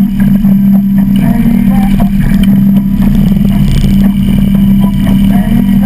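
Harley-Davidson V-twin motorcycle engine running loud at a steady pitch.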